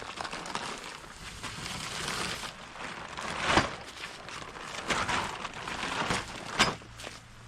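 Rustling, crinkling noise, then three sharp knocks spaced about a second and a half apart.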